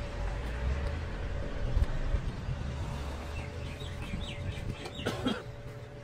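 Outdoor ambience: small birds chirping in a quick series of short notes over a low rumble, with a brief sharper sound about five seconds in.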